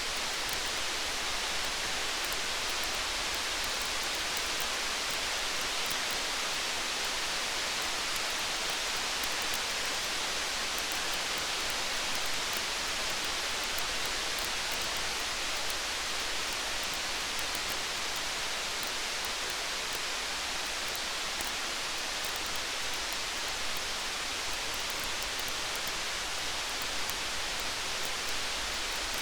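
Steady hiss of rain, with fine high crackles from a wood campfire scattered through it.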